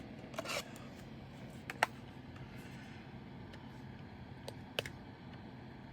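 Light, irregular clicks and taps of a diamond painting pen setting resin drills onto the sticky canvas, a few seconds apart, over a low steady hum.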